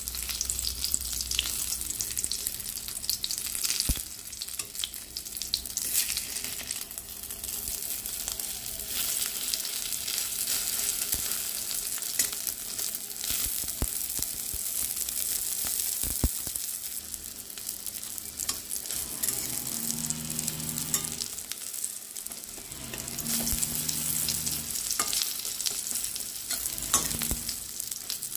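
Egg omelette frying in mustard oil in a metal kadai, sizzling steadily, with a few sharp taps and scrapes of a metal spatula against the pan as it is rolled and turned.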